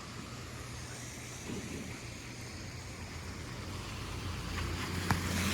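Traffic on a wet street: a steady hiss with a low engine hum that grows louder toward the end as a vehicle approaches.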